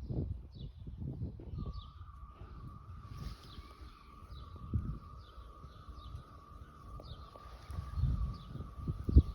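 Birds chirping, short calls repeated about twice a second. About a second and a half in, a steady warbling whistle joins and holds, and a faint high hiss comes in later. Gusts of low rumble underneath are the loudest part.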